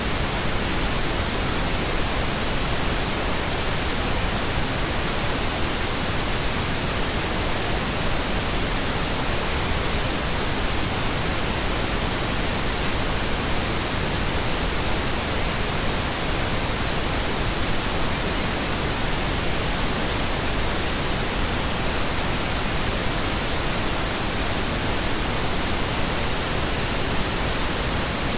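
Steady synthetic pink noise: an even hiss spread across all pitches, unchanging in level.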